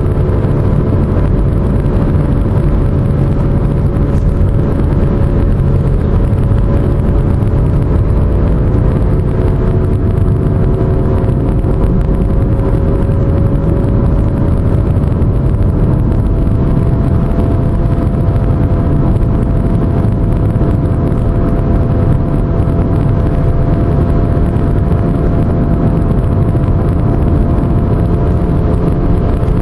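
Pontiac G5 driving, with steady low road rumble and a droning hum of several tones that sags a little and then slowly climbs in pitch; the drone is one the owner likens to an airplane and suspects is a bad wheel bearing.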